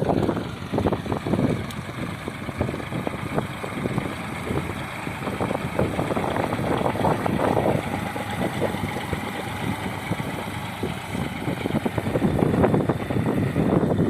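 Tractor engine running steadily, getting a little louder over the last couple of seconds.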